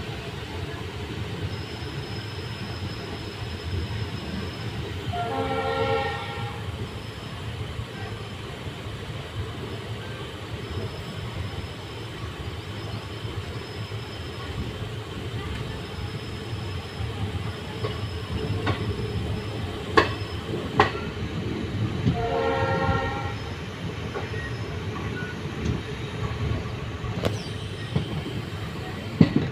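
Passenger train pulling out of a station, heard from an open coach door: steady low rumble of the running train, with the horn sounding twice, each blast about a second long, once early and once about two-thirds of the way through. A few sharp clicks come through in between.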